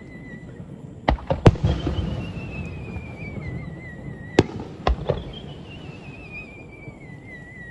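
Fireworks display: a cluster of sharp shell bursts about a second in and another a little past four seconds, each with a rumbling echo. Twice, a high warbling whistle falls slowly in pitch over two or three seconds.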